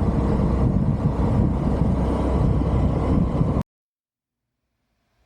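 Steady rumble of a moving vehicle, engine and road noise, that cuts off abruptly to dead silence about three and a half seconds in.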